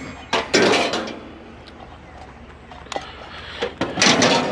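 Knocks and rattling clatter of junk being handled and shifted: a few sharp knocks, a longer rattle about half a second in, and a louder clatter near the end.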